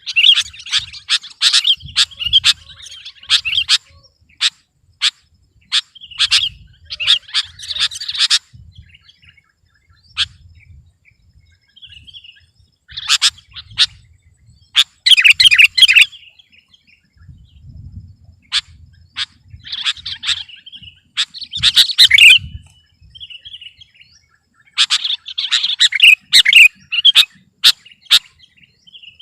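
Sooty-headed bulbul (kutilang) singing loudly in bursts of rapid chirping phrases, with short pauses of a few seconds between them.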